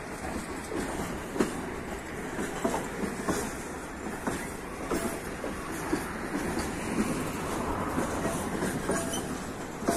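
Loaded freight wagons of a long train rolling past, their steel wheels clacking and knocking irregularly over rail joints over a steady rolling rumble, with a few brief wheel squeals.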